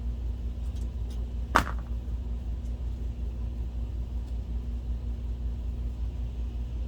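Steady low hum with one sharp click about one and a half seconds in, and a few faint ticks before it, as projector cover parts are handled and fitted.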